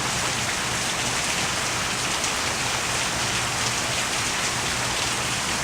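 Steady rain falling, an even hiss with faint drop patter.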